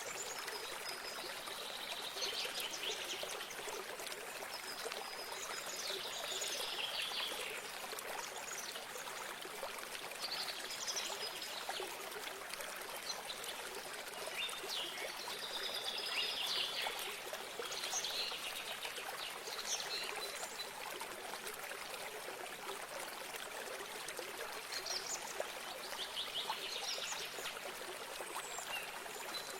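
Water running steadily in a small stream or spring, with songbirds singing short phrases over it every few seconds.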